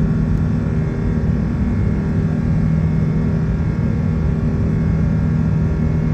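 Steady engine and airflow noise of an Airbus A380 with Rolls-Royce Trent 970 engines, heard from inside the cabin: a constant low rumble with a steady hum.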